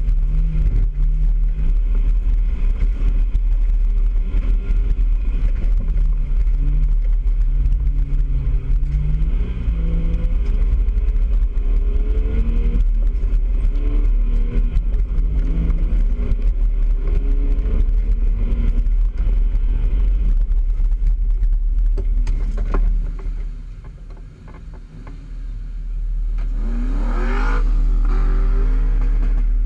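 Nissan Patrol four-wheel drive's engine running under load on a rough dirt track, its pitch rising and falling with the throttle over a heavy low rumble and frequent knocks and rattles. Near the end the sound drops away briefly, then an engine revs up sharply.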